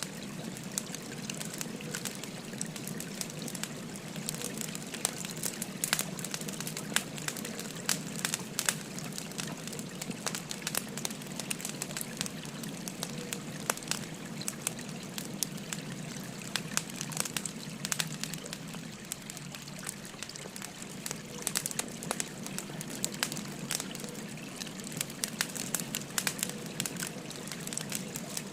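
Wood fire crackling with frequent irregular sharp pops, over the steady rush of a babbling stream.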